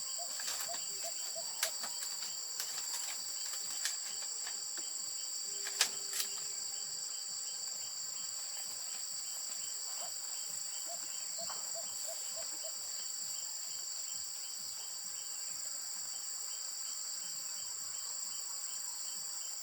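Steady high-pitched insect chorus, with a few short clicks and a couple of brief runs of quick chirps.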